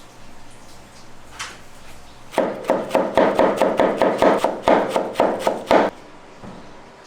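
A knife chopping quickly on a wooden cutting board: a run of sharp, even strokes, about five a second, starting a couple of seconds in and stopping abruptly after about three and a half seconds.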